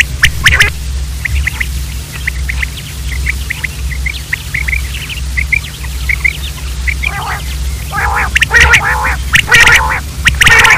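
Quail calling: a run of short, high chirps, then from about seven seconds in, louder harsh calls in quick bursts.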